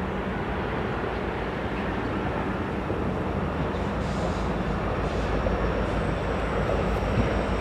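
Diesel freight train approaching: a steady low rumble.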